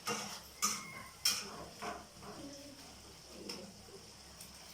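A few sharp metal clinks and taps of a cooking utensil against a pot, one with a brief ringing tone, spaced unevenly over the first two seconds, then one more later.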